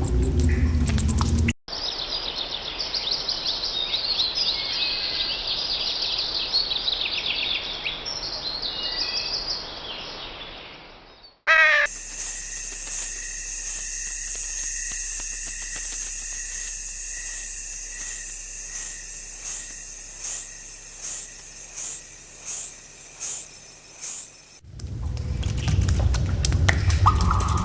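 Forest ambience from several recordings spliced together: birds chirping and calling, then a steady high buzz with a call repeating about once a second. A loud low rumble fills the opening second and the last few seconds, and the segments change with abrupt cuts.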